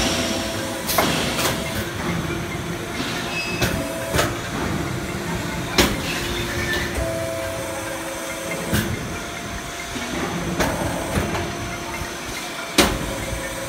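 Sheet-metal duct production line machinery running: irregular metallic clanks and knocks, about eight of them, over a steady machine hum and hiss.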